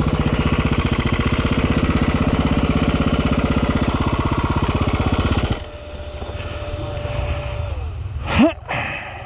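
Four-stroke enduro motorcycle engine running at steady revs, then cutting off abruptly about five and a half seconds in and leaving a low rumble. A brief, sharp rising sound comes near the end.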